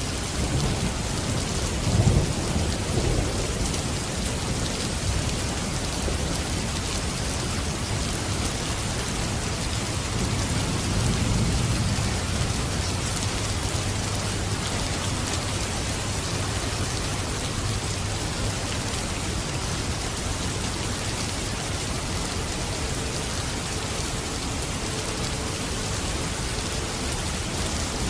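Steady rain falling, with thunder rumbling low underneath: a louder rumble about two seconds in and a longer one around ten to twelve seconds.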